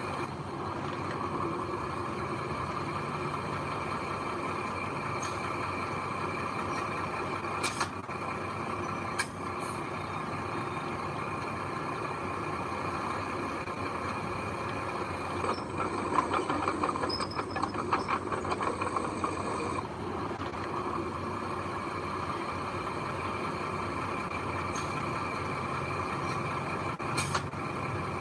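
Heavy diesel construction machinery running steadily, with a few sharp clanks. About halfway through there is a louder, rattling stretch of about four seconds with a high hiss over it.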